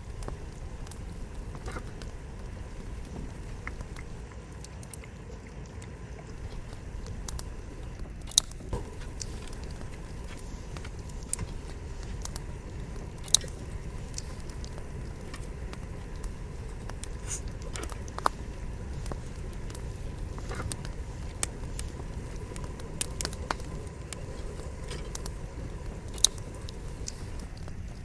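Campfire of burning wood logs crackling, with a steady low rush of flame and scattered sharp pops, the loudest about 8, 13, 18 and 26 seconds in.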